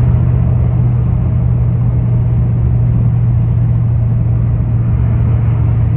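1965 Chevy Nova's LS-swapped aluminum 6.0 V8 running at a steady cruise on its first shakedown drive: a deep, even drone that holds the same pitch throughout.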